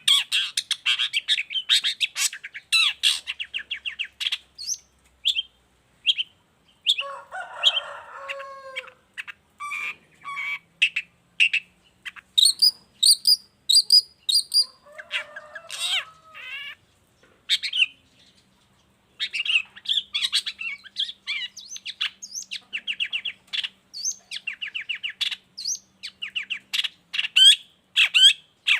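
Long-tailed shrike singing in full song: a fast, varied run of chirps and trills, with two harsher, lower calls about eight and fifteen seconds in and a short pause near the middle.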